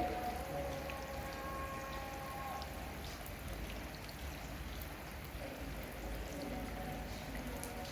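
Rain falling: a steady wash of water with scattered small drop ticks. A few faint held tones sound for the first few seconds.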